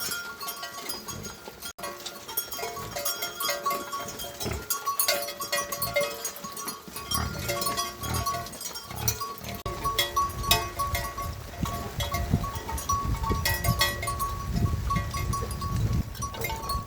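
Livestock bleating, with many short calls. A low rumble comes in about halfway through.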